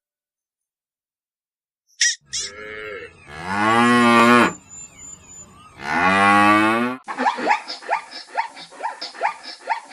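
Cow mooing twice, each call about a second long, after two short high chirps. Near the end a different clip follows: a rapid series of short animal calls, about three or four a second.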